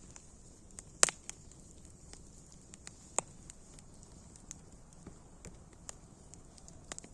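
Campfire crackling: irregular sharp pops, the loudest about a second in, over a faint steady hiss.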